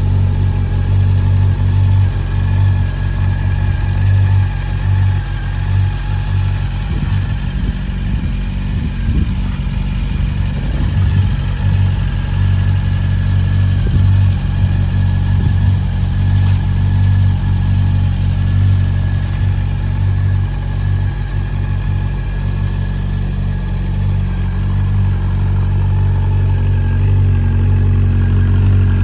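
Honda CB400 Super Bol d'Or's liquid-cooled inline-four engine idling steadily at an even pitch.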